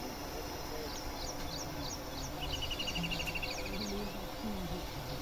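Birds calling over a steady outdoor background noise: scattered high chirps throughout, and about halfway through one rapid trill of repeated notes that drifts slightly down in pitch.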